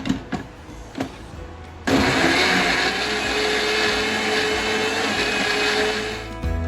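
Electric mixer grinder blending eggs and bread pieces in its jar: after a few light clicks it starts suddenly about two seconds in, runs with a steady whine and noisy churning, and stops shortly before the end.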